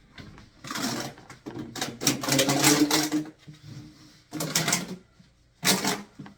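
Plastic air-conditioner parts clattering and scraping as they are handled and pushed into place, in four uneven bursts. The longest and loudest comes about two to three seconds in.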